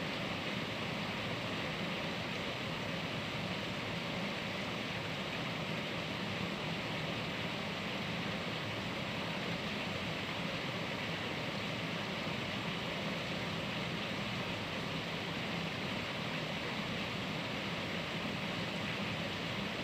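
Heavy rain falling steadily, an even hiss with no pauses or separate impacts.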